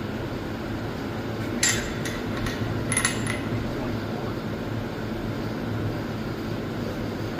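A few light metal clinks of tools and parts being handled, about a second and a half in and again around three seconds, over a steady low hum.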